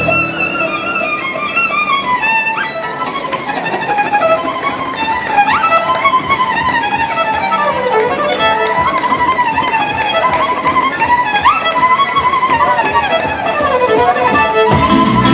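Fast violin playing in Romanian gypsy style, rapid fluttering runs with quick upward slides, imitating birdsong. A lower accompaniment comes in fuller near the end.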